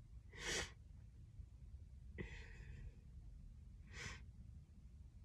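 A woman's two breathy sighs, about half a second and about four seconds in, with a short, fainter breath-like noise between them.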